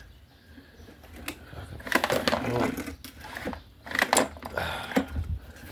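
Recoil pull-cord starter on a PowerSmart 170cc mower engine yanked a few times, with a clattering rattle at each pull as the engine cranks over without firing. The plug is out of the engine and being checked for spark.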